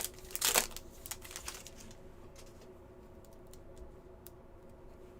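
Trading cards being handled: a short rustle about half a second in, then soft, scattered clicks as the cards are flipped through one by one.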